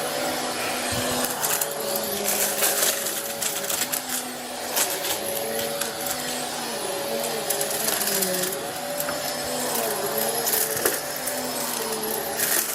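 Vacuum cleaner running steadily, its motor pitch wavering up and down as it is pushed back and forth, with scattered crackles.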